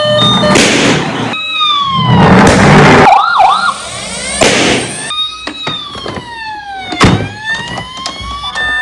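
Emergency-vehicle sirens, several overlapping: long falling wails, a quick up-and-down warble about three seconds in, and rising wails near the end, with a few loud noisy rushes in the first half.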